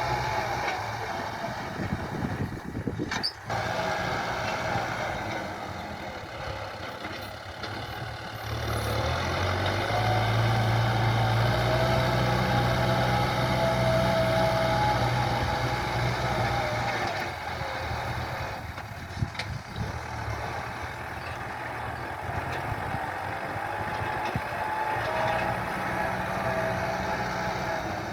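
A farm tractor's diesel engine running while working the field. It grows louder and deeper from about nine seconds in, holds for several seconds, then eases off again near seventeen seconds.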